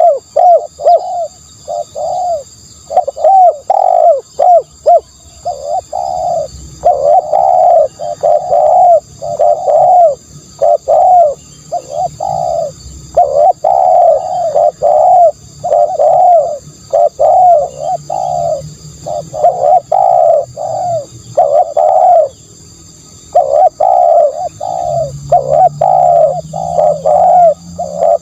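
Spotted dove cooing over and over: loud phrases of short, rolling coos with brief pauses between phrases, and a longer pause about three-quarters of the way through. This is the dove's territorial song, used as a decoy call to lure spotted doves.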